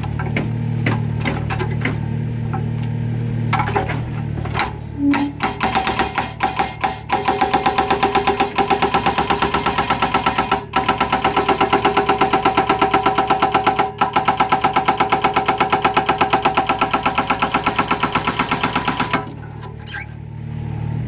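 Mini excavator's hydraulic breaker hammering concrete: after a few scattered blows it settles into a fast, even run of several blows a second, breaking off briefly twice, then stops near the end while the excavator's engine keeps running.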